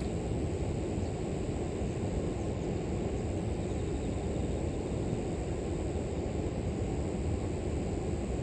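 Steady low rush of flowing river water, with a faint high steady trill of grass insects above it.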